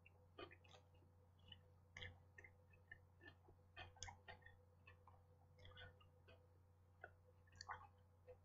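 Faint mouth sounds of a person chewing a bite of sandwich: scattered, irregular soft clicks and smacks over a low steady hum.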